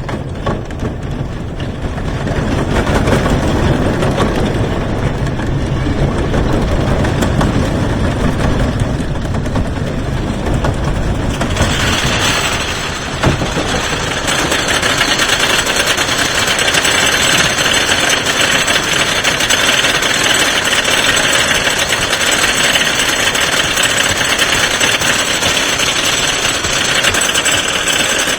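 Lightning Racer wooden roller coaster train rolling over its track with a low rumble. About twelve seconds in this turns to a steady, brighter mechanical clatter, typical of the train being pulled up the lift hill by the chain with the anti-rollback dogs rattling.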